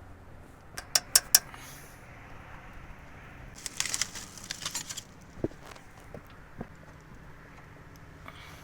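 Workshop repair noises from hand tools and metal parts: three sharp clicks about a second in, then a rattling clatter around four seconds in, with a few lighter ticks after.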